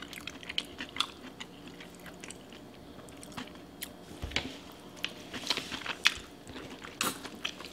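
Mouth sounds of eating seafood boil in sauce: chewing, with many short wet smacks and clicks of lips and sauce-covered fingers.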